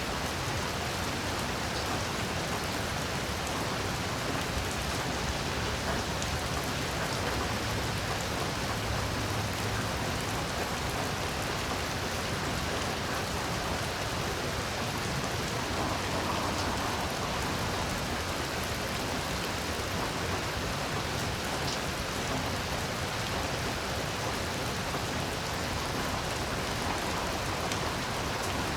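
Heavy rain falling steadily, a dense, even hiss of drops that holds at one level without breaks.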